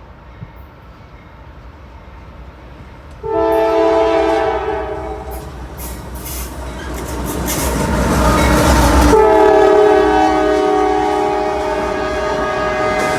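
Multi-tone air horn of a CSX freight train's lead CM44AC locomotive sounding a blast about three seconds in, then the rush of the locomotives passing close by, then the horn sounding again and holding on, a horn salute to the people filming.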